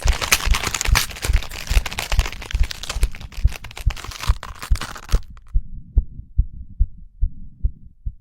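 Transformation sound effect: a heartbeat thumping about twice a second under dense crackling and crunching. The crackling cuts off suddenly about five seconds in, leaving the heartbeat alone and fading.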